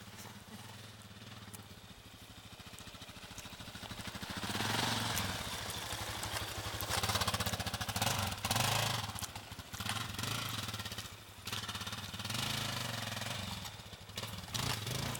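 Yamaha XT350 dual-sport motorcycle's single-cylinder four-stroke engine running, the throttle opening in three or four surges from about four seconds in as the bike climbs a steep dirt bank under load.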